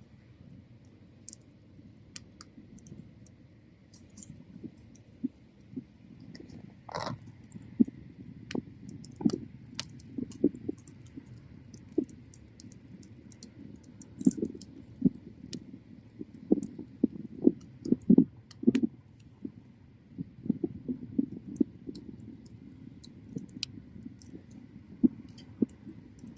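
Bonfire of burning wood crackling and popping, with irregular sharp snaps over a low steady rumble of the flames.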